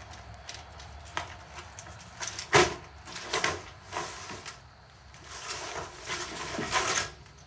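Sheets of corrugated tin roofing being handled: a series of metal knocks and clatters, the loudest about two and a half seconds in, then a stretch of scraping and rattling near the end.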